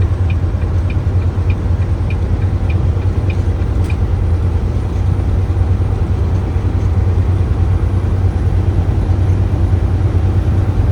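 Steady low drone of a tractor-trailer's engine and road noise inside the cab while driving. A turn signal clicks about two to three times a second and stops about four seconds in.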